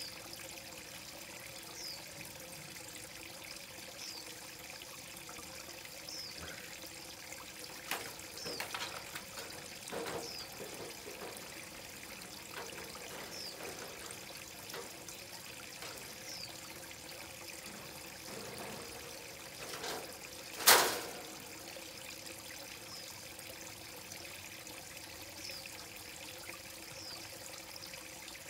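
Koi pond water trickling and pouring steadily. A short high chirp repeats about every two seconds, and one sudden loud sound comes about two-thirds of the way through.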